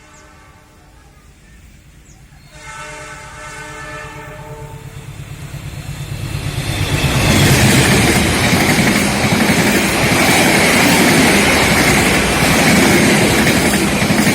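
Diesel locomotive of a passenger train sounding its horn twice, a short blast and then a longer one, as it approaches. The engine noise builds, and from about halfway through the train passes close by, loud and steady with wheels clattering on the rails.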